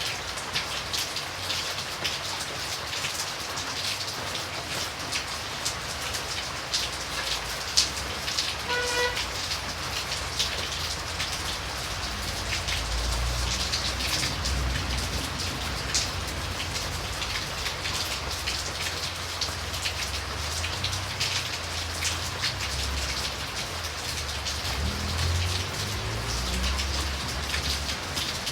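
Steady rain falling, a dense hiss full of individual drops ticking on surfaces. A low rumble comes in under it from a little before halfway through.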